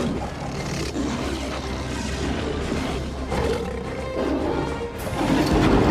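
Lions roaring in a fight over a dramatic orchestral film score, which swells louder near the end.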